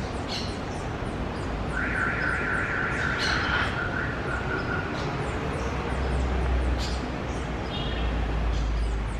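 Birds calling: a few short, sharp squawk-like calls, and a buzzy trill held for about three seconds, over a steady background hiss.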